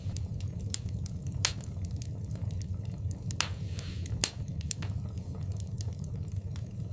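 Fire in a fireplace crackling, with frequent sharp pops over a low steady rumble of the flames. The loudest pops come about a second and a half in and again about four seconds in, and a short hiss comes a little after three seconds.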